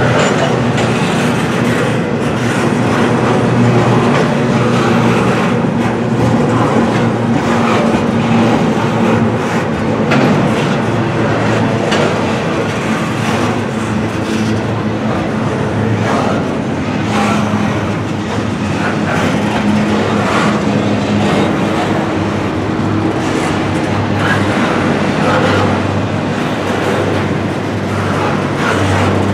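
Double-stack intermodal container cars rolling past close by: a steady, loud rumble of steel wheels on the rails, with irregular clacks and knocks.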